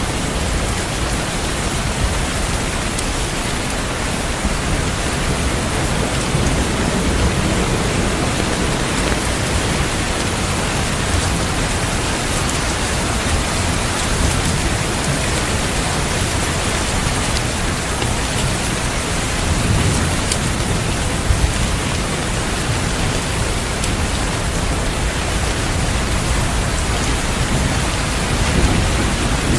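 Steady heavy rain falling, with low rumbles of thunder about two-thirds of the way through and again near the end.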